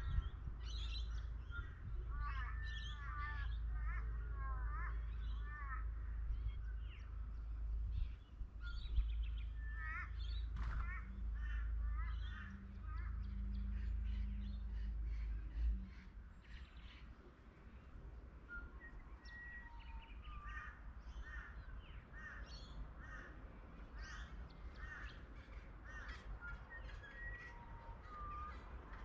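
Birds calling in short, repeated notes, over a low rumble that cuts out a little past halfway.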